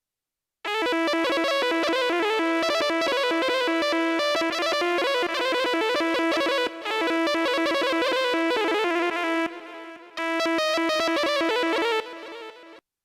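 Xfer Serum software synthesizer playing a fast Balkan-style solo melody over a steady held note. It starts about a second in, breaks briefly twice, and stops shortly before the end.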